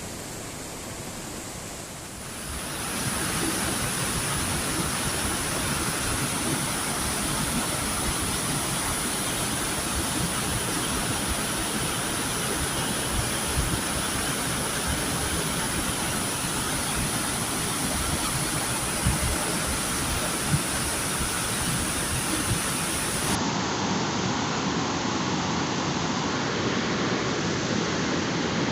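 Floodwater rushing in a swollen stream, a steady loud rush of water that grows louder a few seconds in and shifts in tone near the end.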